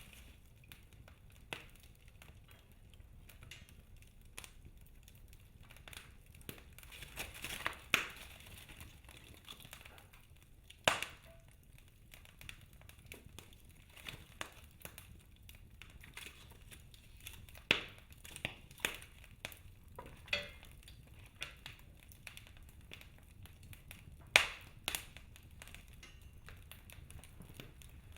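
Wood fire crackling in a fireplace: irregular sharp pops and snaps from the burning logs, with a few louder snaps spread through, over a faint steady low hiss of the flames.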